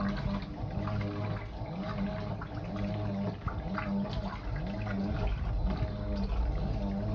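Fisher & Paykel IW812 top-loading washing machine agitating its wash load. The motor hum rises and falls in pitch about once a second as the drive reverses, with water sloshing in the tub.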